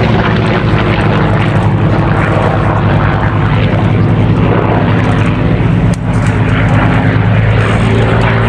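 Vought F4U Corsair and North American P-51D Mustang piston-engined warbirds flying past, their propeller engines running loud and steady with a deep hum. The Mustang's engine is a Merlin V12 and the Corsair's is a big radial.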